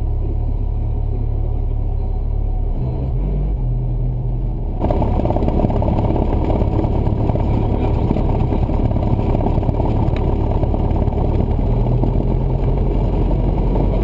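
Cessna 172's piston engine and propeller running at low power, then throttled up abruptly about five seconds in and held at the higher, louder power setting.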